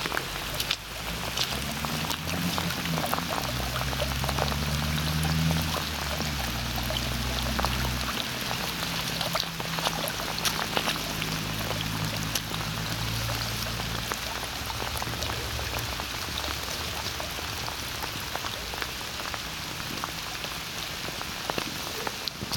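Heavy monsoon rain: a steady hiss of rainfall with many close drops pattering. A low droning hum runs under it through the first half and fades out about fourteen seconds in.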